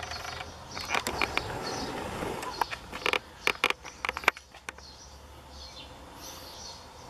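Birds chirping in short, repeated high notes. From about one second in to about five seconds in there is rustling and a run of sharp clicks and knocks, which are the loudest sounds.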